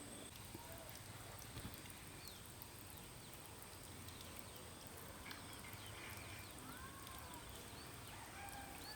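Faint bird chirps and short whistled glides, clustered about five to seven seconds in, over a quiet background with a steady high-pitched tone.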